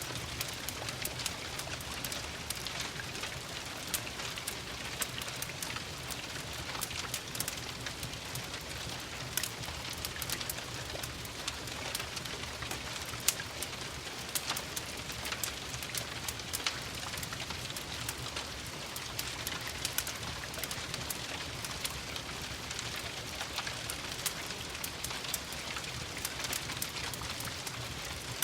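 Steady gentle rain mixed with a crackling wood fire: an even hiss, with frequent sharp crackles and pops scattered all through.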